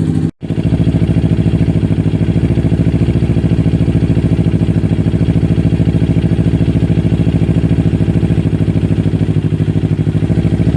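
Motorcycle engine idling steadily through an aftermarket Akrapovic Hexa carbon racing silencer, with an even, rapid exhaust pulse. The sound drops out for a moment just after the start, then the same steady idle resumes.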